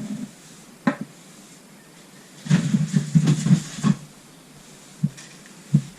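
Tools and engine parts being handled on a workbench: a few separate knocks, and about two and a half seconds in a second and a half of rapid clattering and rubbing.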